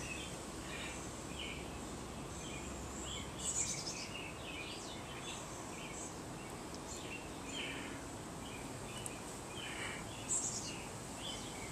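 Birds chirping in short, scattered calls over a faint steady background hiss.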